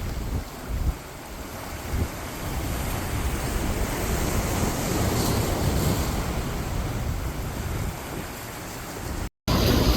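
Wind buffeting the microphone over the wash of waves and boat wakes at an inlet, with gusty low rumbles and a couple of thumps in the first two seconds. The sound drops out completely for a moment near the end.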